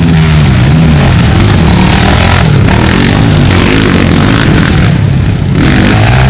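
Racing ATV engines revving hard, their pitch rising and falling as the quads accelerate and shift. The engines are loud throughout.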